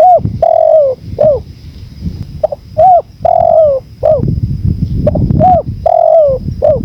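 Spotted dove cooing its repeated phrase three times, about every two and a half seconds: a short note, a rising-and-falling coo, a longer falling coo, then a short note. A low rush of wind runs underneath.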